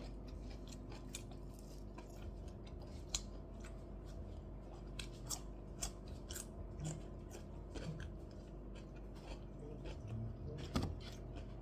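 Close-up chewing and eating sounds: many small, irregular clicks and smacks, over a faint steady low hum.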